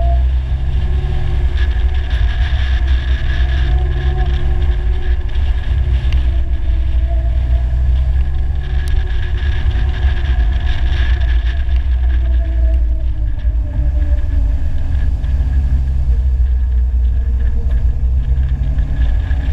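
Polaris Slingshot three-wheeler's engine running on the move, its pitch rising and falling gently with the throttle, under a heavy rumble of wind on the microphone.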